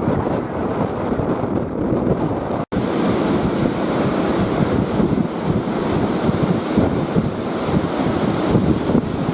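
Strong wind buffeting an uncovered microphone, a loud gusty rumble that cuts out for an instant about two and a half seconds in.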